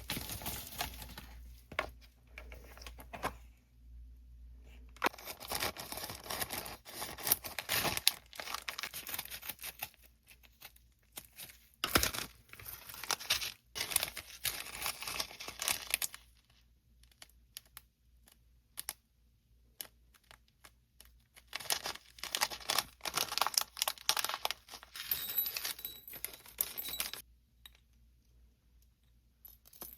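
Packaging being torn open and crinkled by hand, in several spells of tearing and rustling with pauses between them.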